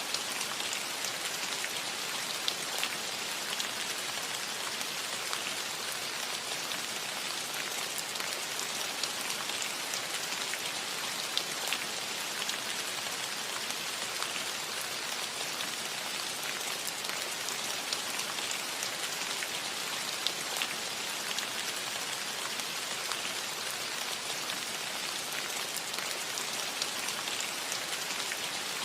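Steady rain falling on a cottage roof, a constant hiss with many individual drops tapping through it.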